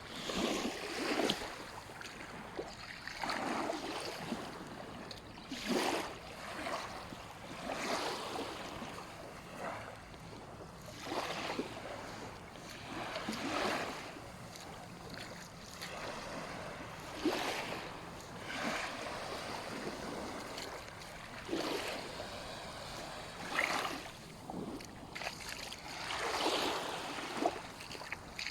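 Small sea waves washing onto a sandy beach, one surge every two to three seconds.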